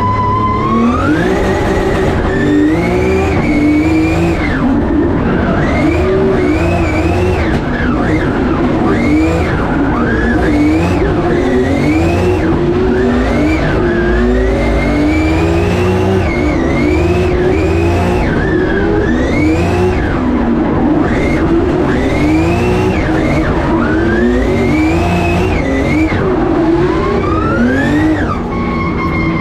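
Drift car's engine heard from inside the cabin during a tandem drift run. It holds steady revs, climbs about a second in, then rises and falls again and again every second or two, over a constant bed of tyre noise.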